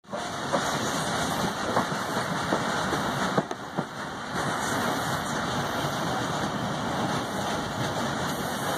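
Passenger train running at speed, heard from an open coach window: a steady rumble and rush of wheels on rail and passing air, with a few sharp clicks in the first few seconds.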